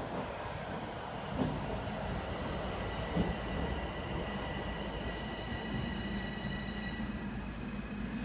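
Toronto subway train running on the rails with a steady rumble, and a high-pitched wheel squeal that sets in about five and a half seconds in and holds for about two seconds.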